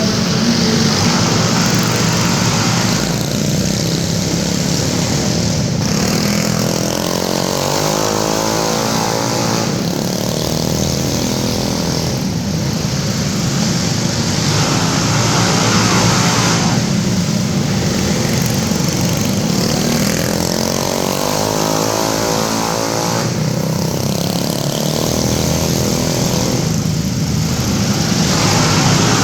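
Minibike engines racing flat out, rising and falling in pitch every few seconds as the throttle is opened and closed.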